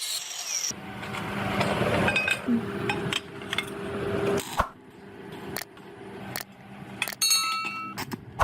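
Metal tools and parts clinking and knocking several times, some strikes ringing briefly, over a steady low hum.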